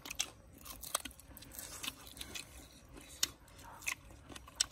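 People chewing cooked spiders close to the microphone: irregular small crunches and clicks of the bodies and legs breaking between the teeth.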